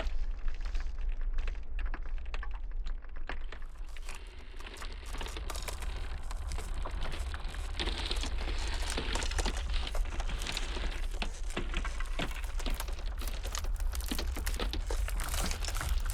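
Iceberg ice crackling and popping in dense, irregular clicks, over a steady low rumble of blizzard wind.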